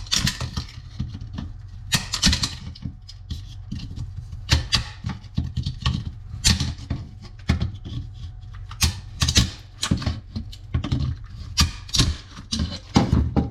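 The brittle plastic mount of a 1st-gen Toyota Tundra factory door speaker, cracking and snapping as it is broken apart to free the speaker, in a series of irregular sharp cracks.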